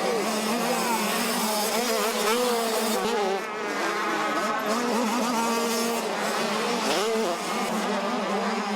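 Several motocross bike engines on track, revving up and down as the riders race.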